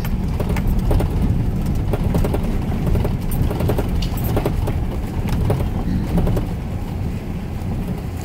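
A vehicle driving over a rough dirt forest road: a steady low rumble with frequent knocks and rattles from the bumps.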